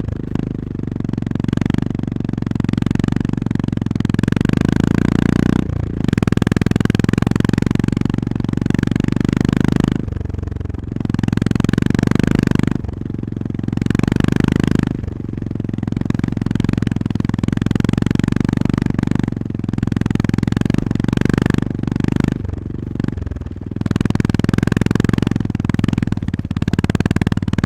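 Honda GB350S's air-cooled single-cylinder engine running under way, its note swelling and dropping back every few seconds as the throttle opens and closes.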